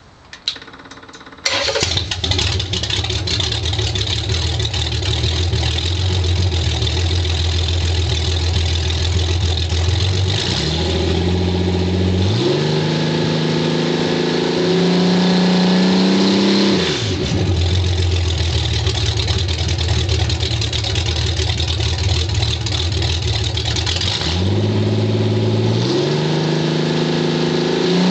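Chevrolet 4.3 V6 aircraft-conversion engine with a belted reduction drive starting up about a second and a half in and idling. About ten seconds in it revs up in steps, holds a higher speed, drops back to idle, and revs up again near the end.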